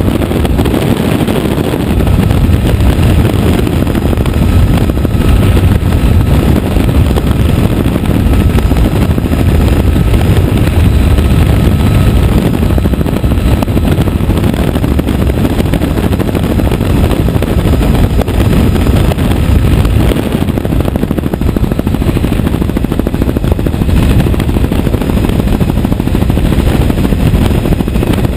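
Helicopter in flight: loud, steady rotor chop and engine noise heard from aboard.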